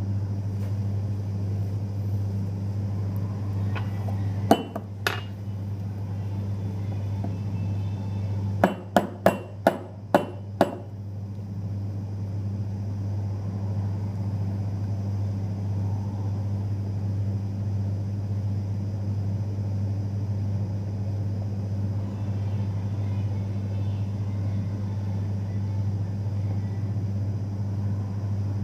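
A coffee maker humming steadily and low. There are a couple of sharp clicks about four to five seconds in, then a quick run of six hard knocks about nine seconds in.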